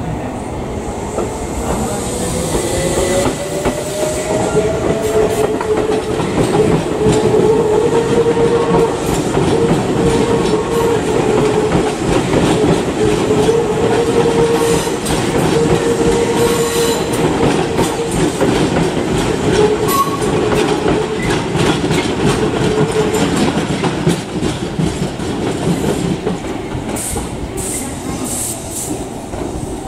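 Electric trains running through a station: a motor whine rises in pitch over the first few seconds as a train pulls away, then a steady hum holds while the wheels click over rail joints. Brief high wheel squeal near the end.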